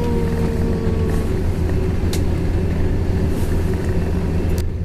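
Steady rumble of a regional train running, heard from inside the carriage, with a faint whine that dies away in the first second and a couple of light clicks.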